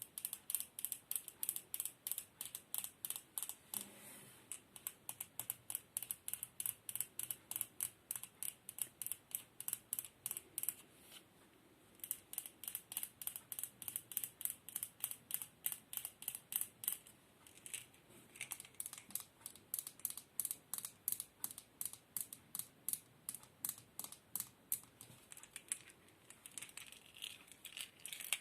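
Rapid, even clicking or tapping, about three to four clicks a second, with a short pause about twelve seconds in.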